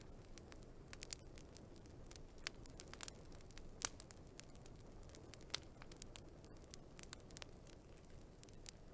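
Wood fire crackling faintly: a dozen or more irregular sharp pops and snaps over a steady low hiss, the loudest pop about four seconds in.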